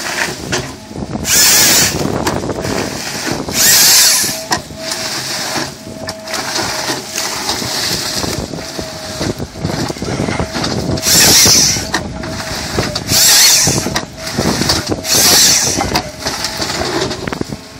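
Vicort 240 eucalyptus-cutting machine running with a steady tone, with five loud hissing bursts of about a second each as it works through the wood.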